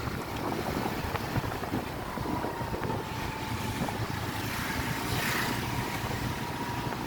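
Motorcycle engine running as the bike rides along, with wind buffeting the microphone and a faint steady whine throughout.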